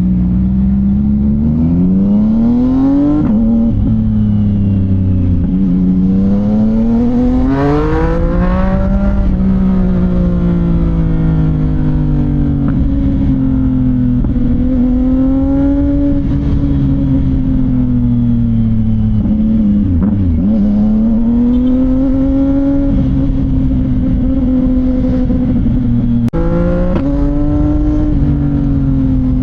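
CFMOTO 675NK's inline three-cylinder engine through a titanium full-system exhaust, revs rising and falling several times as the bike is ridden.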